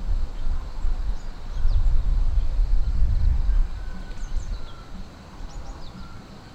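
Low rumble of wind on the microphone that eases after about four seconds, with faint, short, high bird chirps scattered throughout.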